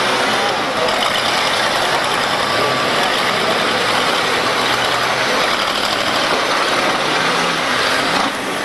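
Demolition-derby cars' engines running together in a steady, dense din.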